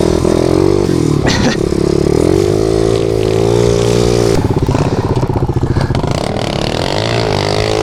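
Pit bike's small single-cylinder four-stroke engine being ridden, revving up and easing off. There is a sharp knock about a second and a half in. About halfway through the engine drops to a low, stuttering chug, then picks up again near the end.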